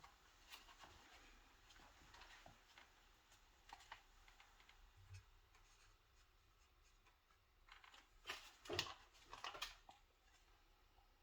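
Near silence broken by faint scattered clicks and light rattles of handling, with a short cluster of louder sharp clicks about eight to nine and a half seconds in.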